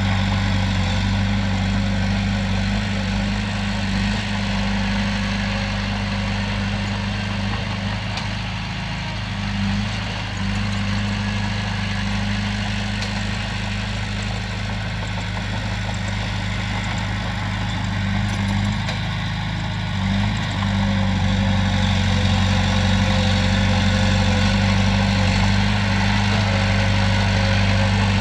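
Komatsu bulldozer's diesel engine running at a steady speed, a deep even hum that dips briefly a couple of times and gets a little louder in the last quarter.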